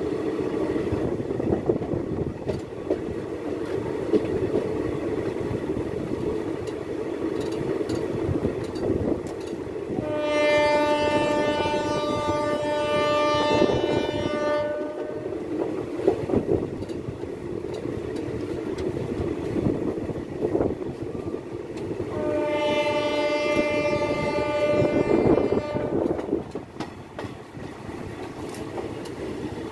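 Indian Railways passenger express running, heard from an open coach door: a steady wheel-and-rail rumble with occasional clicks. The locomotive horn sounds two long blasts, about ten and twenty-two seconds in, each lasting roughly four to five seconds.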